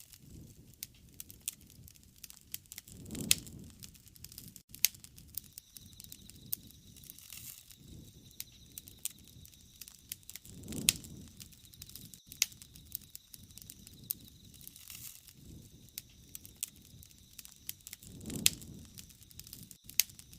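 Wood fire crackling, with many sharp pops and snaps scattered through, and three low rushing swells about seven seconds apart.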